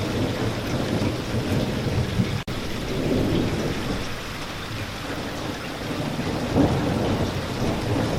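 Steady rainfall with a continuous low rumble of thunder under it. The sound drops out for an instant about two and a half seconds in.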